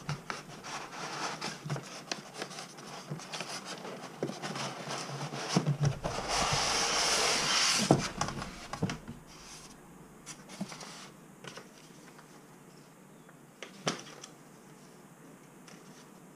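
Packaging being handled and opened by hand: rustling and crinkling with many small clicks. A louder stretch of rustling lasts about two seconds, then the sound thins to a few light taps and clicks.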